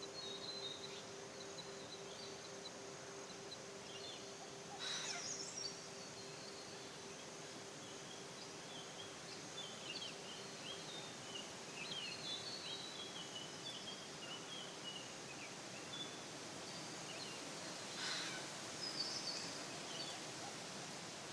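Forest ambience: many small birds chirping and twittering over a steady background hiss, with two louder, harsher bird calls, one about five seconds in and one near the end.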